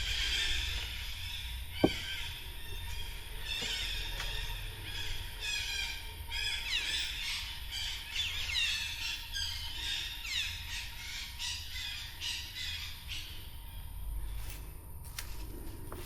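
Several birds calling at once in tropical forest: fast chattering runs and repeated downward-sliding notes overlapping one another. A single sharp knock comes about two seconds in.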